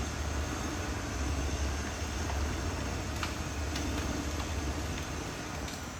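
Caterpillar D6R XL bulldozer's diesel engine running with a steady low rumble, a few faint clinks heard over it.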